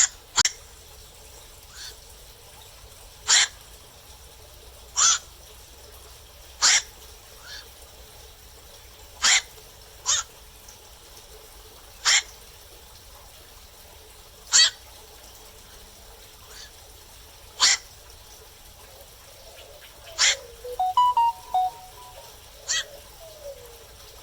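Black-crowned night herons calling: short, sharp single calls spaced a second or three apart, with a quick run of several calls about twenty seconds in.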